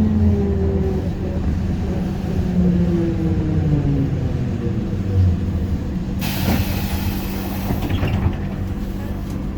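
ZiU-682G trolleybus slowing down, its traction motor and gear whine falling in pitch. About six seconds in comes a sharp hiss of compressed air lasting about two seconds, over a steady hum.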